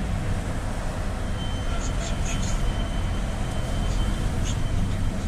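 Cabin noise of a GAZ Gazelle City minibus on the move: steady low engine and road rumble, with a few short light rattles from the body and fittings around the middle.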